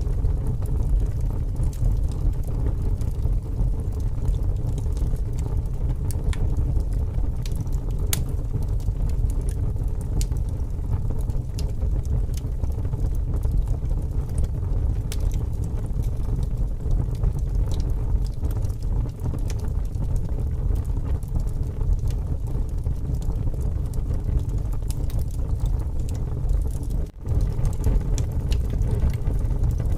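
Wood fire crackling with scattered sharp pops over a steady low rush of strong wind. The sound briefly drops out near the end.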